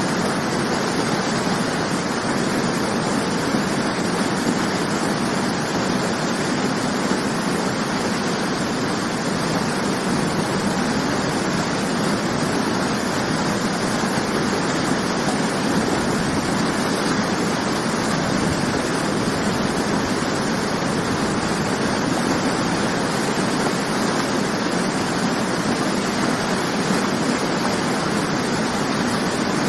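Waterfall rushing: a steady, dense roar of falling water with no breaks or changes.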